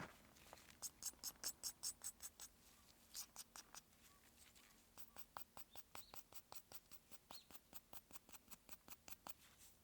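Hand work in quick, evenly spaced light strokes, about four or five a second, strongest in the first couple of seconds and softer after.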